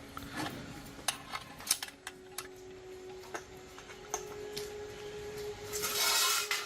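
Scattered light metallic clicks and clinks of tools and small parts being handled, with a short hiss near the end.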